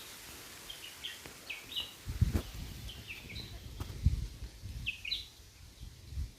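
Small birds chirping in short, quick notes, scattered through the outdoor ambience, with a few low thumps.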